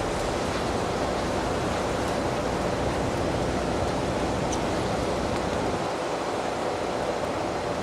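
Steady, even rush of storm surf and wind on the open beach, with no breaks or single impacts standing out.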